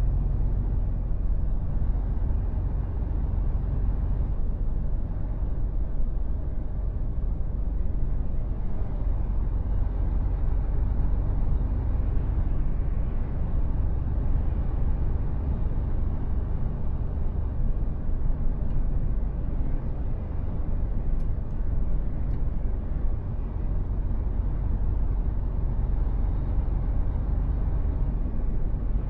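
Mercedes-Benz Actros truck on the move: a steady, low rumble of engine and road noise.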